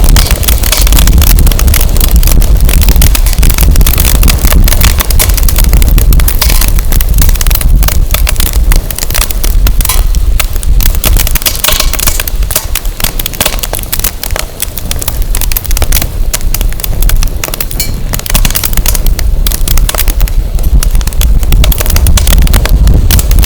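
Firewood burning in a bonfire, crackling and popping in quick irregular snaps, with wind buffeting the microphone in a low rumble that eases off in the middle.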